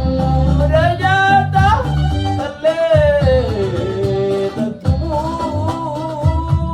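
A man singing a Sudanese song in long, wavering melodic lines over plucked-string accompaniment and a bass line.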